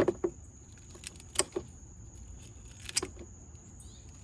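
Three sharp metallic knocks about a second and a half apart, each followed by a lighter one: a tool striking a corroded car battery terminal to break up the corrosion.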